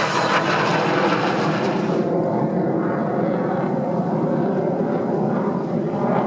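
Jet noise from T-50B jet trainers flying a display, a steady rushing sound whose higher hiss drops away about two seconds in.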